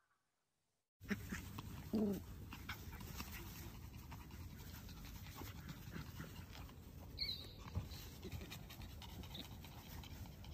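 A dog over a steady noisy background, with a short call about two seconds in and a brief high sound near seven seconds.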